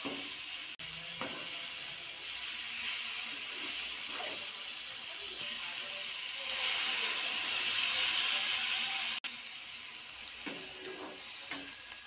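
Chopped radish, onion and green chillies sizzling in hot coconut oil in a frying pan, with occasional scrapes of a steel spoon. About six and a half seconds in the hissing turns louder and steamy as water goes into the hot pan, then cuts off abruptly a little after nine seconds.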